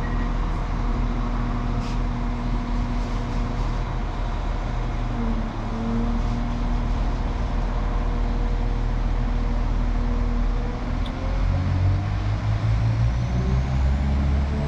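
Diesel multiple unit passenger train running under power as it pulls away, its engine drone steady and then stepping up in pitch twice as it accelerates, growing louder near the end.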